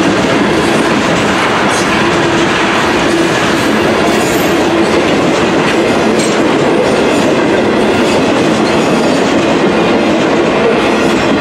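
Freight cars of a Union Pacific manifest train rolling past: a loud, steady run of steel wheels on rail with occasional clacks.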